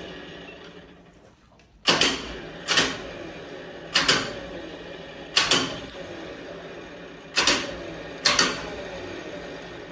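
Six loud, sharp knocks at uneven intervals of about one to two seconds, each ringing briefly as it dies away.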